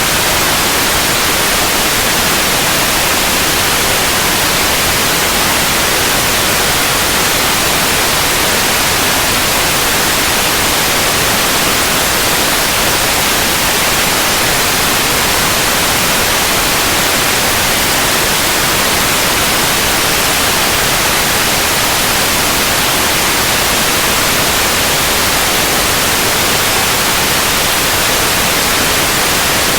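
Continuous synthetic white noise: a steady, even hiss, loudest in the high frequencies, with no changes.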